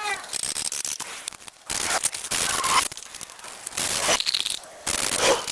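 Scraping work noise in three rasping bursts, with sharp clicks between them.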